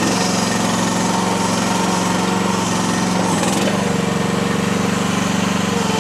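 Small engine of a Chinese mini skid steer running steadily while the machine carries a heavy pallet of concrete blocks, about 550 pounds. About halfway through its note shifts briefly, and a steady whine then rides over the engine.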